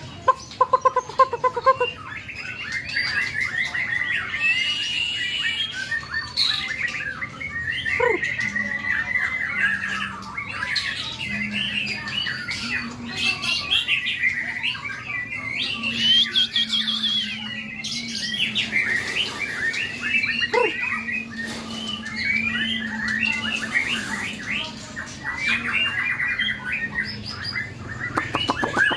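A dense chorus of many caged birds chirping, trilling and squawking at once, the calls overlapping without a break.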